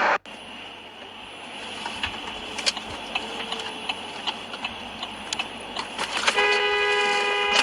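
Road traffic noise with a few sharp clicks, then a car horn sounding one steady note for just over a second near the end.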